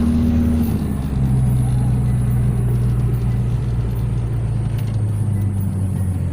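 Car engine running steadily while driving, its note shifting lower about a second in.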